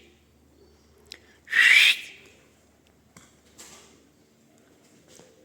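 A person giving short, loud, breathy whistles: one rising whistle about one and a half seconds in and another at the very end.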